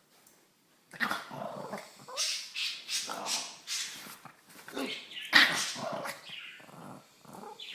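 A dog making a run of short, irregular growls and barks, starting about a second in, the loudest around the middle.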